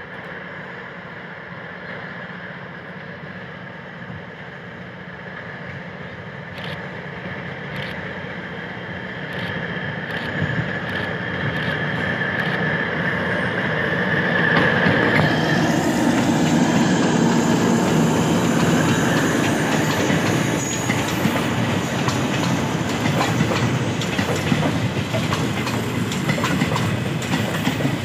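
State Railway of Thailand diesel-hauled passenger train approaching and passing close by. The locomotive's engine and wheels grow steadily louder with a thin high wheel squeal, loudest as the engine goes past about halfway through. The coaches then roll by with a steady clickety-clack of wheels over the rail joints.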